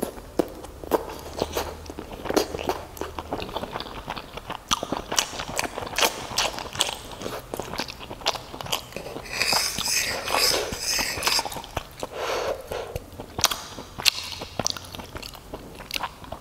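Close-miked chewing of fried meatball crabs: rapid wet mouth clicks and smacks. A brief high, crackly sound comes about ten seconds in.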